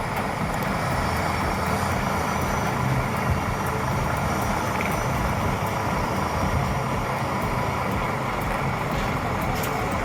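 Heavy-haul prime mover's engine running steadily under load, a continuous low drone.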